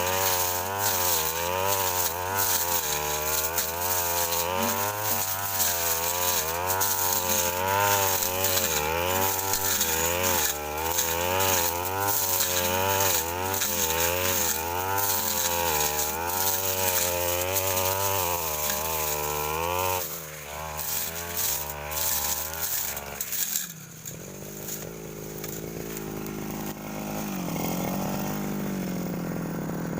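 Brush cutter engine running at high revs while the blade slashes through brush, its pitch rising and falling repeatedly under load. About 20 seconds in the revs fall away and the engine settles to a lower idle.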